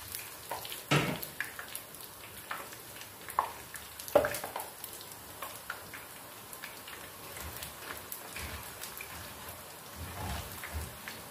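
Besan boondi sizzling as they fry in hot oil in a pan. A wire-mesh skimmer stirs through them, scraping and knocking against the pan, with the sharpest knocks about a second in and about four seconds in.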